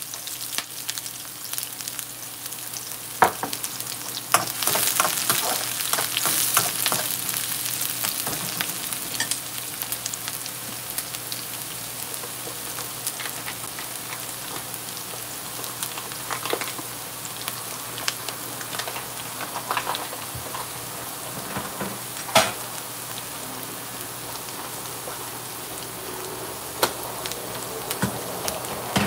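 Sliced onions frying in hot oil in a wok: a steady sizzle with scattered pops and crackles. The sizzle swells for a few seconds about 5 s in, and two sharp clicks stand out, one near the start and one about two-thirds through.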